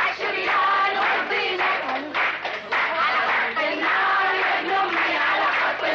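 A group of women singing patriotic chants together, with clapping.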